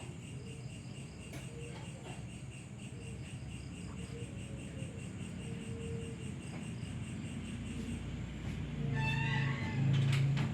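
Insects chirping steadily in a repeating high pulse over a background hiss. A louder low-pitched hum joins about nine seconds in.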